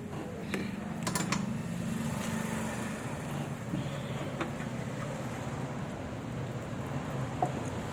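A motor vehicle engine running steadily, with a few sharp metallic clicks about a second in.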